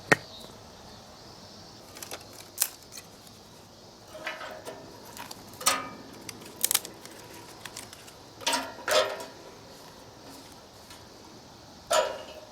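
Metal clanking and knocking of a pot made into a fire pit, about eight separate strikes spread a second or two apart, several of them ringing briefly, with sharp single clicks between.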